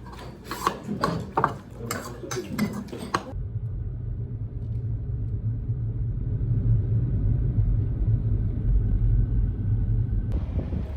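Steady low rumble of a car on the move, heard from inside the cabin: road and engine noise. It follows about three seconds of voices and light clinks, which end with a sudden cut.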